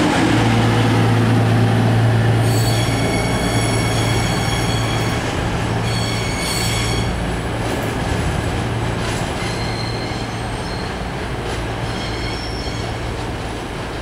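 CrossCountry Class 220 Voyager diesel multiple unit pulling away, its underfloor diesel engines running steadily and slowly fading as it draws off. High wheel squeal from the curving track sets in about two and a half seconds in and comes and goes through the rest.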